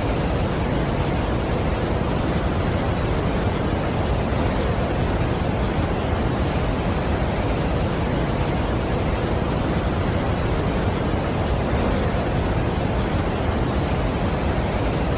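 Steady, unbroken roar of a large waterfall: an even rushing noise, heaviest in the low and middle range, with no change in level.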